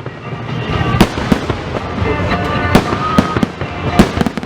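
Fireworks display: aerial shells bursting in a run of sharp bangs, about four loud reports with crackling between them.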